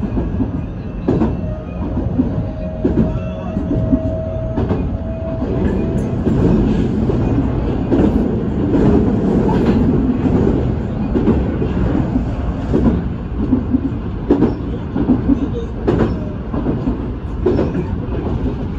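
Shizuoka Railway (Shizutetsu) two-car electric train running, heard from on board: a steady rumble with sharp clacks of the wheels over rail joints every second or two, and a brief steady whine a few seconds in.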